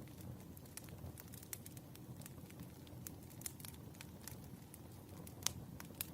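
Wood fire crackling: a steady low rumble of burning logs with irregular sharp snaps and pops, the loudest pop about five and a half seconds in.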